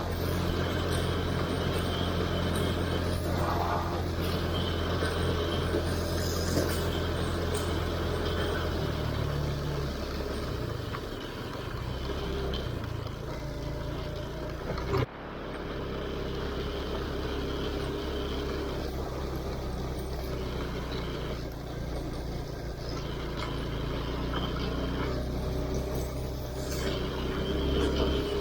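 Vehicle engine running steadily, its note shifting about nine seconds in, with an abrupt break about halfway through.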